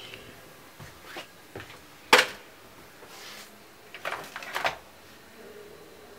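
Clicks and knocks of laptop parts and tools being handled: a few light taps about a second in, one sharp knock a little after two seconds, then a short rattling cluster of clicks around four to four and a half seconds.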